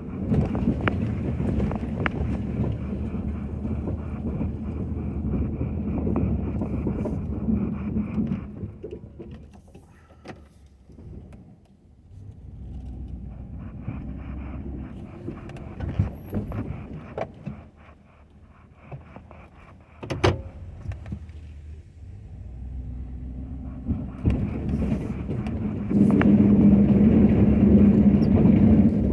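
Ford F-250 pickup's engine running while plowing snow, its sound rising and falling: loud at first, dropping away for a few seconds, then loudest again near the end. A few sharp knocks come in the middle.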